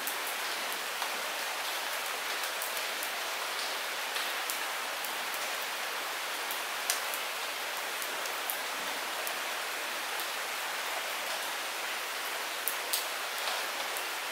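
Steady light rain, a continuous hiss with scattered sharp drip and drop impacts close by, a few clustered near the end.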